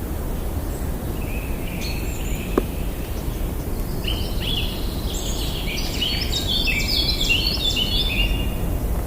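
Wild birds singing and chirping over a steady low rumble, with a dense run of rapid, overlapping chirps from about four seconds in until near the end. A single sharp click about two and a half seconds in.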